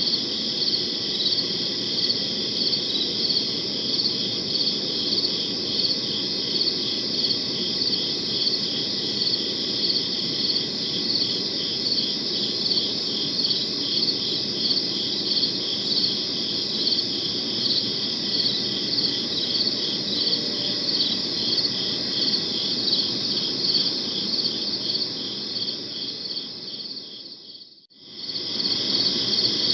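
Crickets chirping in a steady night chorus, a high, even trill with a regular pulsing rhythm. Near the end the whole sound fades away briefly and then comes back, as at the join of a looped recording.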